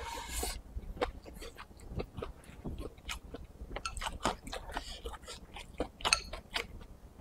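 A man chewing a mouthful of chicken giblets and rice with pickled peppers: many short wet smacks and clicks of the mouth, after a brief noisy rush at the very start as he takes food from the bowl's rim.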